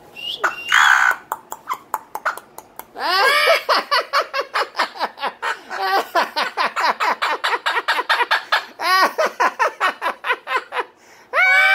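A talking parrot laughing in a long run of quick, rapid ha-ha pulses, after a brief high squawk near the start.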